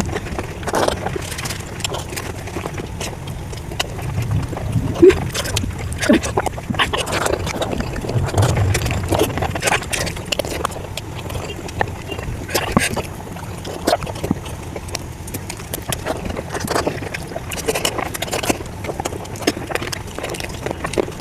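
Close-miked eating sounds: irregular wet chewing, lip smacking and mouth clicks of someone eating curry and rice.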